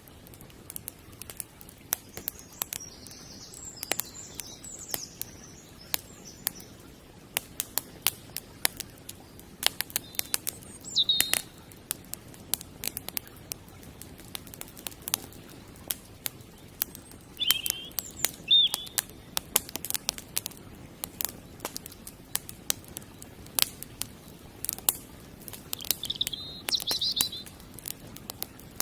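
Campfire crackling, with many sharp pops and snaps scattered irregularly throughout. Small birds chirp in short high phrases several times, over a low steady hiss.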